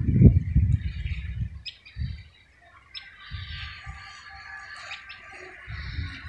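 Small birds chirping and tweeting in the background, under low rumbling buffets on the microphone that are loudest in the first second and a half and return briefly near the end.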